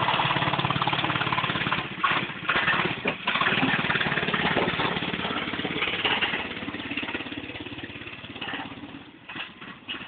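Pit bike engine running and revving, with a few sharp breaks in the sound about two to three seconds in, then growing fainter over the last few seconds as the bike moves away.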